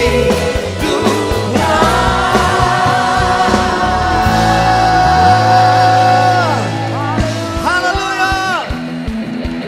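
Live worship band playing, with a voice singing a long held note near the middle over bass, drums and cymbals.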